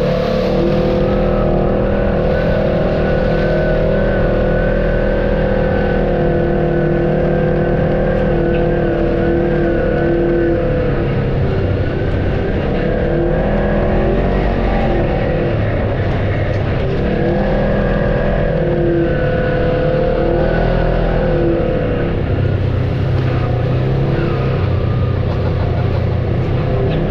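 Off-road vehicle's engine running steadily under load on a trail, its pitch rising and falling a little as the throttle changes.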